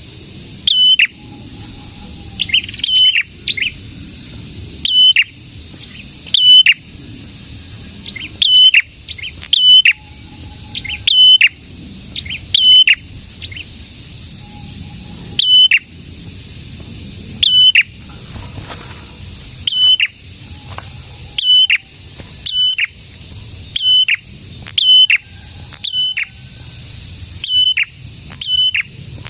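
A prenjak songbird calling loudly: short, sharp, high chirps repeated about once a second, sometimes doubled or tripled in quick succession, over a steady high hiss.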